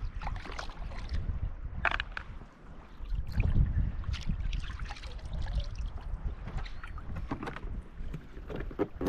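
Wind buffeting the microphone on a fishing kayak, with water splashing and knocking against the hull and scattered small clicks and knocks.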